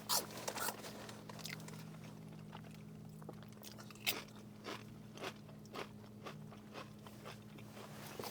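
A person chewing and biting crunchy food close to the microphone, with scattered short crunches over a low steady hum.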